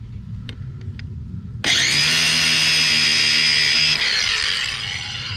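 Power tool with a cutting wheel running. About two seconds in it cuts into plastic sprinkler pipe fittings with a loud, hissing whine for about two seconds, then eases off.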